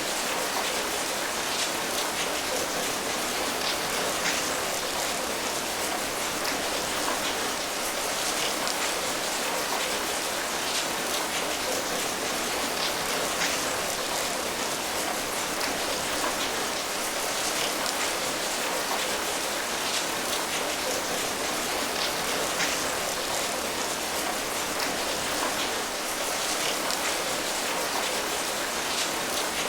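Steady rain falling, an even patter of many small drops hitting a surface.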